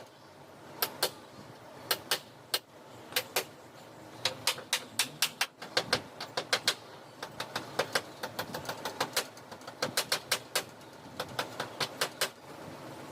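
Upholstery staple gun firing staples in quick succession, dozens of sharp snaps, often two at a time.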